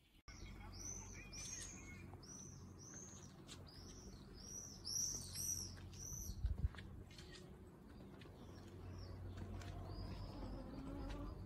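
Small birds chirping: a run of short, high chirps, about two a second, through the first half, then a few more near the end, over a low steady rumble.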